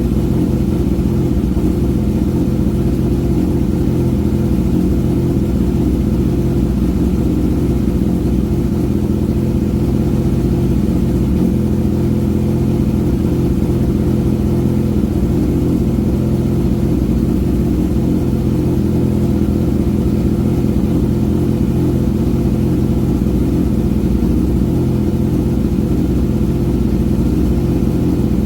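Kawasaki ZX-6R 636's inline-four engine idling steadily through an M4 GP19 aftermarket exhaust, with no revving.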